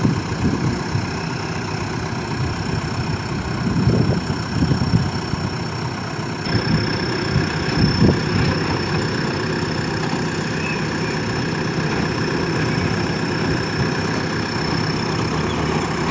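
Diesel engine of a JCB 3DX backhoe loader running steadily, briefly louder around four and again eight seconds in.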